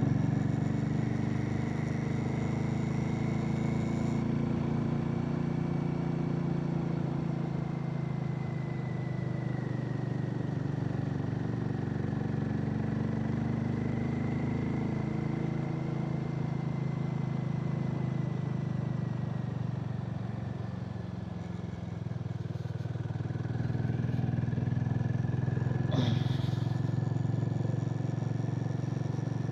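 Harley-Davidson X440's single-cylinder engine running steadily under way. It eases off briefly about two-thirds of the way through, then picks up again. A single short, sharp click comes near the end.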